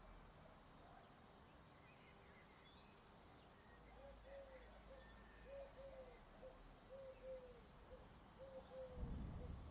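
Faint rural ambience in which a bird repeats a cooing phrase, two longer notes then a short one, over and over from about four seconds in, with faint chirps from other birds. A low rumble swells near the end.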